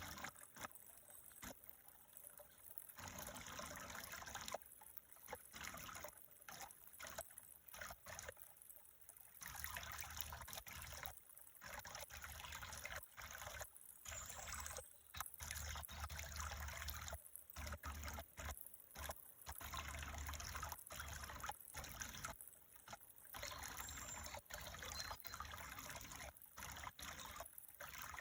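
Faint trickling water, cutting out briefly again and again.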